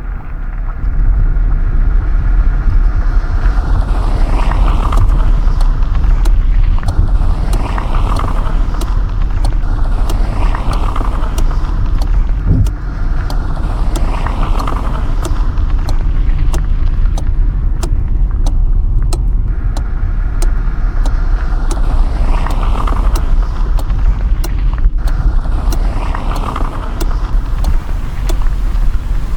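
Steady low rumble of a car's engine and tyres on the road, heard from inside the cabin while driving, with faint scattered ticks.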